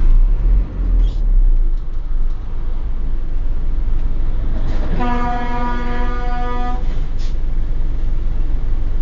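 Steady low road and engine rumble from inside a vehicle cab. About five seconds in, a vehicle horn sounds one level blast of nearly two seconds, a warning during a near-collision.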